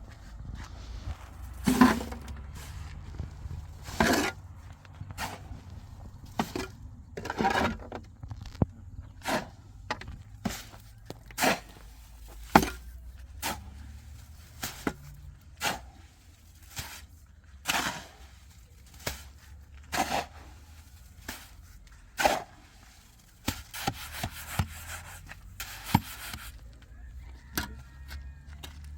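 Building work: irregular sharp knocks and taps, roughly one every second or two with a quick flurry near the end, over a steady low rumble.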